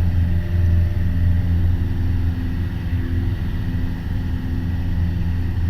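Piper Warrior's four-cylinder Lycoming engine and propeller droning steadily in the cabin as the aircraft climbs away after a go-around.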